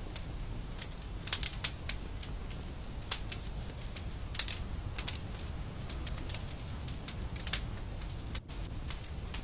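Wood fire in a fireplace crackling, with irregular sharp pops and snaps over a steady low rumble of the flames. The sound briefly drops out near the end.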